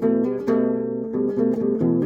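Acoustic guitar music, chords strummed and picked at a steady pace.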